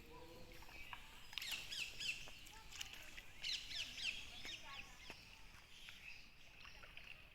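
Bird calls: two short runs of quick, falling high notes, the second about two seconds after the first, faint against a steady outdoor background.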